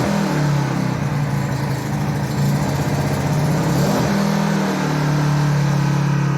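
A-iPower GXS1500i inverter generator's small four-stroke engine running on choke just after a first-time cold pull start; its speed wavers for the first few seconds, then settles to a steady pitch about five seconds in.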